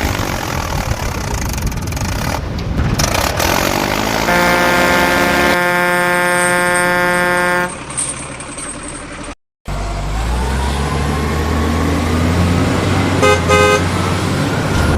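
Truck engine running, with a long steady horn blast of about three seconds starting about four seconds in. After a brief drop-out the engine runs on with a slowly rising whine, and a quick series of short horn beeps sounds near the end.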